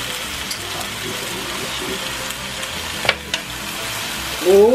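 Seasoned chicken leg quarters sizzling steadily on a hot electric griddle. Two sharp clicks come about three seconds in, from the metal tongs laying another piece on the griddle. A short, loud pitched sound bends up and down near the end.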